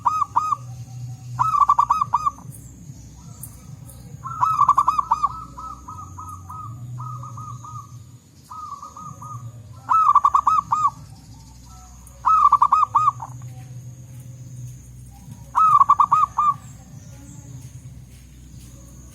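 Zebra doves cooing: short phrases of rapid trilled coos, one after another, some loud and some fainter, the way birds answer one another.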